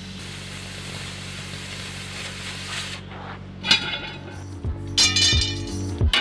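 Steady engine hum under a hiss for about three seconds, which cuts off suddenly. Then background music with plucked guitar-like notes comes in.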